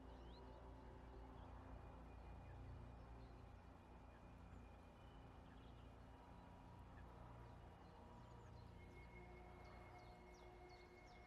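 Near silence: faint outdoor ambience with a low rumble, and a small bird giving a rapid series of faint high chirps near the end.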